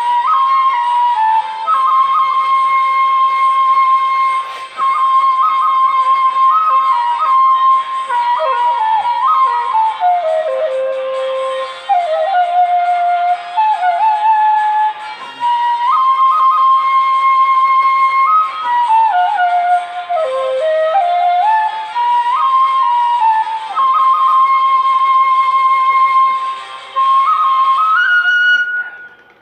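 Danso, a Korean vertical bamboo flute, playing a slow solo melody of long held notes and falling phrases. The tune ends on a higher note about a second before the end.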